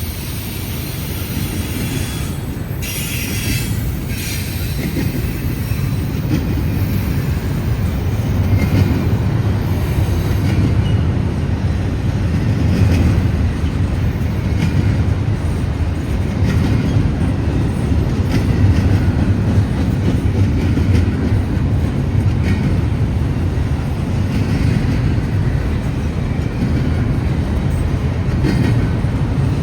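Freight train rolling past with a steady low rumble of cars on the rails. A high wheel squeal is heard in the first few seconds and fades out.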